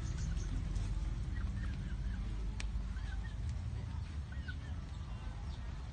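Birds chirping in short calls now and then over a steady low rumble, with one sharp click about two and a half seconds in.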